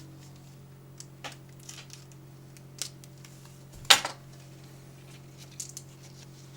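Scattered light clicks and taps of small items being handled, with one sharp clack about four seconds in, over a steady low hum.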